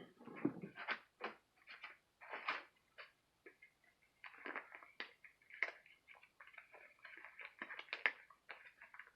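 A small fine-tip paintbrush working paint, making short, irregular scratchy strokes and light taps.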